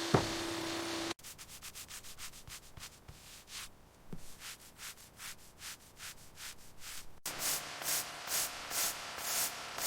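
Rhythmic back-and-forth hand rubbing strokes on a car's surface, like sanding, about three a second. About seven seconds in they turn louder and slower, about two a second. The first second holds a steady hum with one sharp click.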